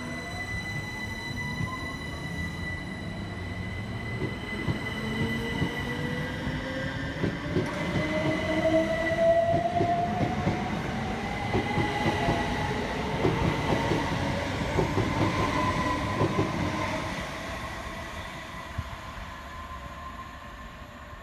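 Class 357 Electrostar electric train accelerating, its traction motor whine rising steadily in pitch over rumbling wheels with frequent clicks. It grows louder towards the middle and fades away over the last few seconds.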